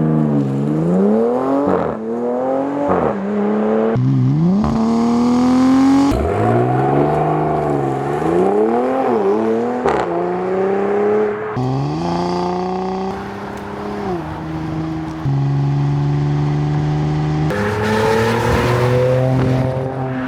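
Dodge Charger SIXPACK's twin-turbocharged Hurricane inline-six revving up and down repeatedly through its exhaust, in short clips that cut abruptly from one to the next. Near the end it holds a steadier pitch.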